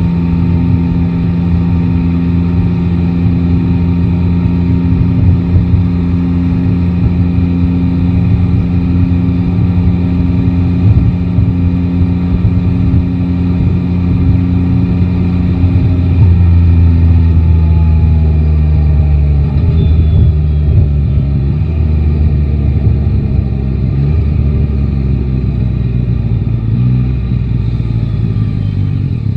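Motorcycle's inline three-cylinder engine running at steady revs while riding. About halfway through the pitch drops as it slows, and near the end the revs rise and fall a few times.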